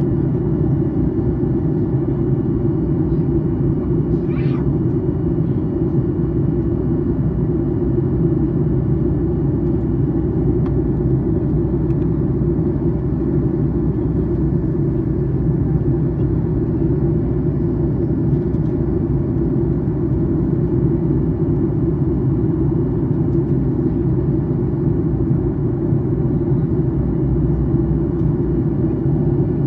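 Steady cabin noise of a Boeing 737-800 in descent, heard from inside the cabin: an even, deep rumble of its CFM56-7B engines and airflow over the fuselage, with a faint steady high whine above it.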